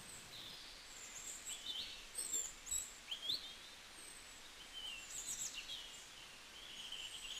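Small birds chirping: many short, high notes that slide quickly up and down, faint, with a few louder calls about two to three and a half seconds in and again around five to six seconds in.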